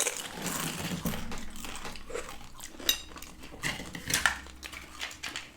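Close-miked eating: cutlery clicking against a dish, with chewing and crunching of the food.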